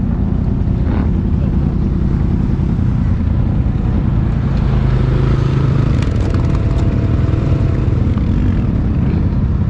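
ATV (four-wheeler) engine running steadily while riding, a low-pitched drone with even loudness.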